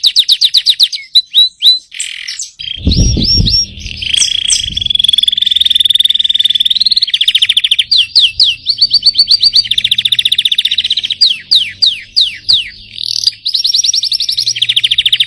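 Canary singing in fast trills and rolls: quick series of repeated chirps alternating with long, even rolling trills held for a second or two. A low thump sounds about three seconds in.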